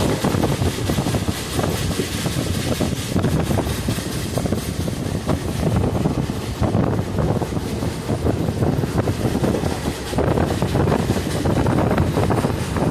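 ICF passenger coach running at speed: steady rumble and clatter of the wheels on the track, with wind buffeting the microphone.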